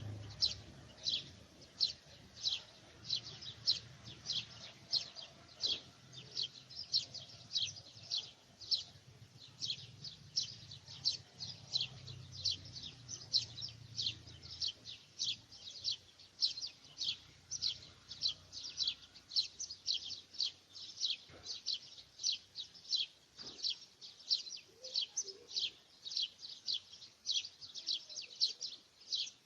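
A bird calling with a short, high chirp, repeated evenly a little over twice a second without a break.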